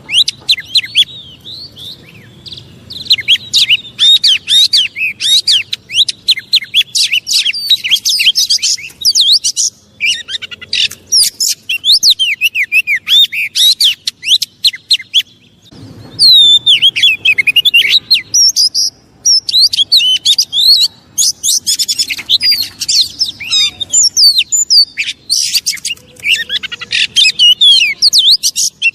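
Oriental magpie-robin (kacer) singing a fast, varied stream of high whistles and chattering notes, with short pauses about ten and fifteen seconds in. It is the worked-up kacer song used as a lure to rouse other magpie-robins.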